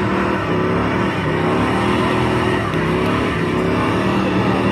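Car engines running steadily, their pitch wavering slightly.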